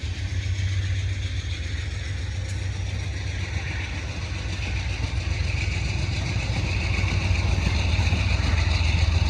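Diesel locomotive engine running with a steady low drone, growing a little louder toward the end.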